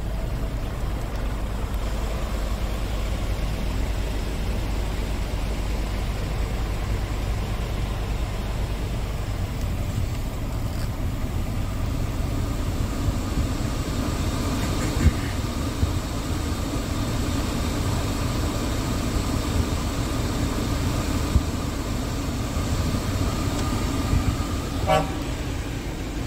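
Scania R450 tractor unit's 13-litre inline-six diesel running with a steady low drone, its tone thickening partway through. Near the end a brief higher pitched tone sounds.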